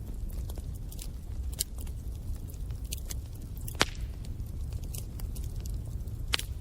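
Bonfire burning: a low steady rumble of the flames with irregular crackles and sharp pops of wood, two loud pops standing out near the middle and near the end.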